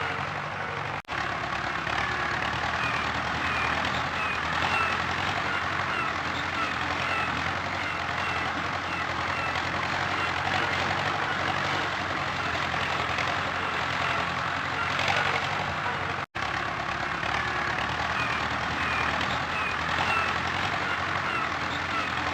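A tractor engine running steadily, with short high chirps repeating about twice a second over it. The sound cuts out briefly twice.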